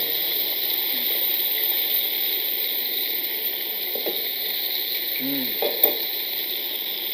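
Chicken breasts frying in a cast-iron skillet, sizzling steadily, with a single sharp click about six seconds in.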